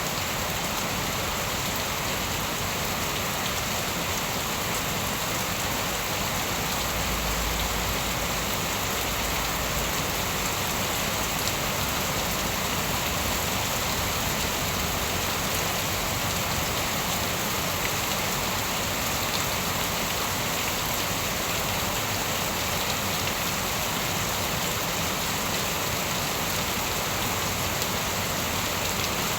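Steady rain falling on a surface, an even, unbroken hiss of drops.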